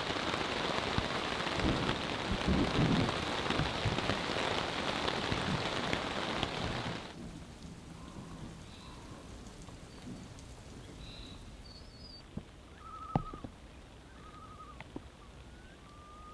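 Heavy rain drumming on a tent's nylon fly. About seven seconds in it cuts to a softer, steady patter of rain falling on a lake, with a few short high calls near the end.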